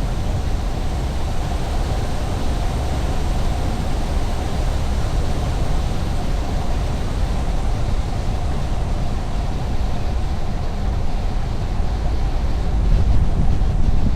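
Steady road noise of a car driving along a highway: a constant low rumble of tyres and engine, growing a little louder near the end.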